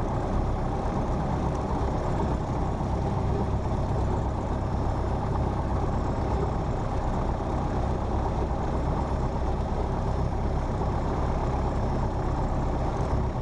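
Cessna 172P's four-cylinder Lycoming engine and propeller running steadily at idle, a constant low drone.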